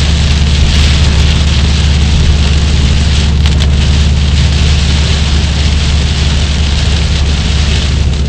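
Heavy rain drumming on a moving car, over a steady low rumble from the car itself, heard from inside the cabin.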